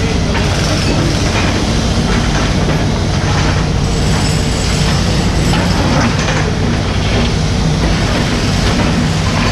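Mini excavator's diesel engine running at a steady speed, with irregular clanks and scrapes of the machine at work.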